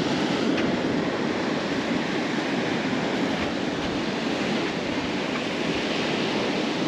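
Steady wash of sea surf breaking on the beach, an even rushing noise with no pauses.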